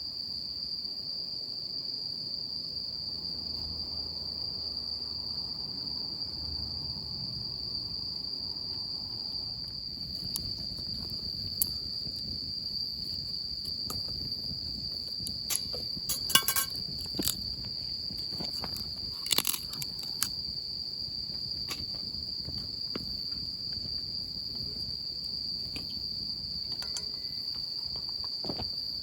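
Insects chirring in one steady high-pitched note, with scattered sharp clicks and small knocks from about a third of the way in, the loudest of them around the middle.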